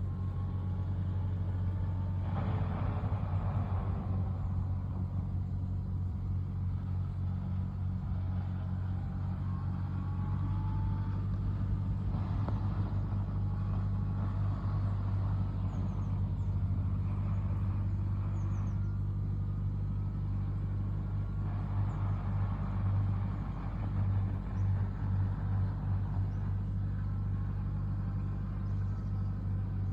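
Tractor diesel engine working in a field, a steady low drone with a louder rushing swell about every ten seconds.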